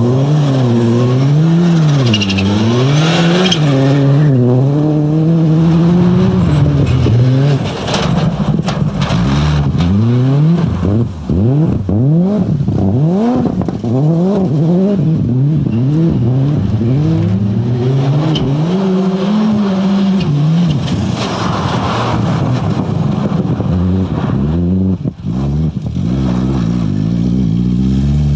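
1999 Toyota Corolla WRC rally car's turbocharged four-cylinder engine driven hard on a test run. The revs climb and fall again and again as it goes through the gears, with quick short sweeps up and down in the middle stretch.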